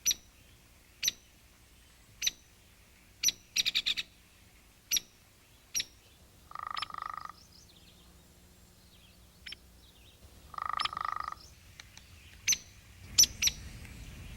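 Birds calling: sharp, high chip notes about once a second, with a quick run of them about four seconds in. Twice, a short, lower, buzzy trill.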